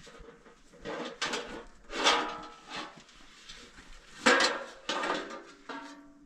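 Household wares clattering as they are handled: about five separate knocks and clinks with a short ring, the loudest a little past four seconds in.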